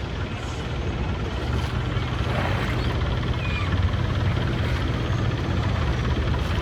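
Longtail boat's engine running steadily, a low drone under a steady wash of noise.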